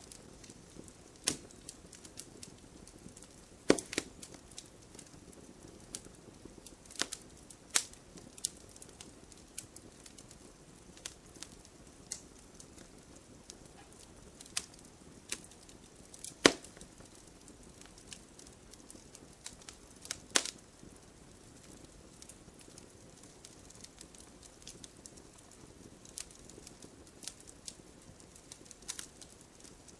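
Wood campfire crackling: sharp pops and snaps at irregular intervals over a faint steady hiss, with a few much louder pops scattered among the smaller ones.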